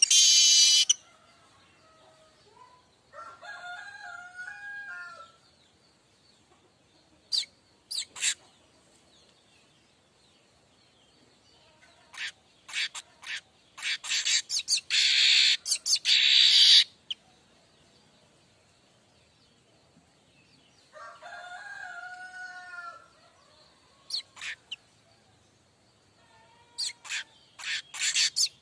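Streaked weaver (manyar kembang) song: sharp ticking clicks and a long, loud harsh buzzing wheeze lasting a few seconds, which is the drawn-out 'mbeset' note. Twice, a pitched crowing call of about two seconds sounds fainter behind it, likely a rooster.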